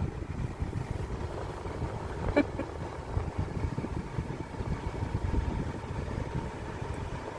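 Car running slowly, heard from inside the cabin: a steady low engine and road rumble, with one brief click about two and a half seconds in.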